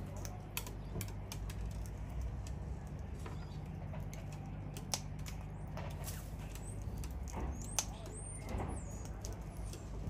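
Scattered sharp clicks and ticks with a few thin, high bird chirps that slide in pitch near the end, over a steady low hum.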